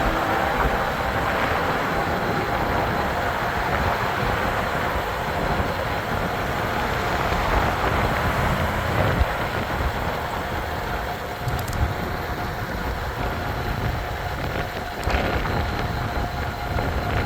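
Steady wind and road noise from a moving e-bike, with a faint steady whine and a few light clicks.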